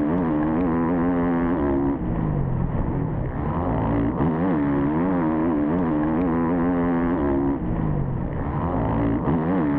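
Motocross race bike's engine heard up close, revving up and down over and over as the throttle is opened and shut, with short drops in pitch at gear changes.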